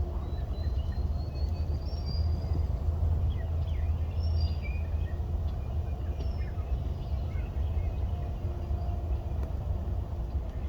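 Small birds chirping and calling faintly and intermittently over a steady low rumble of outdoor background noise.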